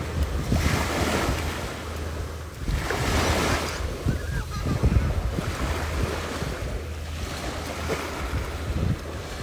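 Waves washing onto a beach, the surf hiss swelling and fading every two to three seconds, with wind buffeting the microphone.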